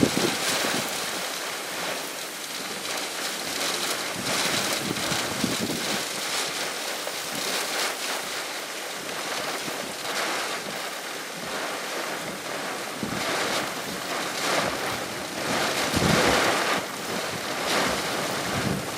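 Typhoon Nanmadol's winds gusting hard, the rushing noise swelling and easing, with wind buffeting the microphone. The strongest gust comes near the end.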